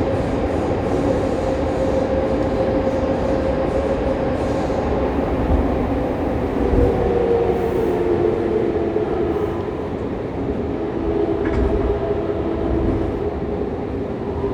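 Fukuoka City Subway 2000 series train heard from inside the car, running with the steady whine of its Hitachi GTO-VVVF inverter over wheel and track rumble. Several whine tones drift slowly lower as the train slows.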